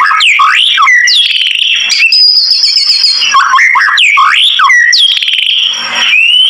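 White-rumped shama (murai batu) singing: loud, clear whistled phrases of quick rising and falling glides, with a rapid trill worked in. The phrases repeat, and near the end it holds a long whistle that slides up and then down.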